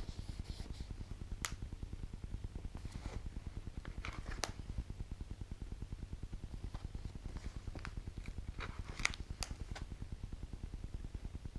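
Handling and turning the pages of a laminated instruction manual: scattered soft rustles and a few sharp clicks, over a steady low pulsing hum.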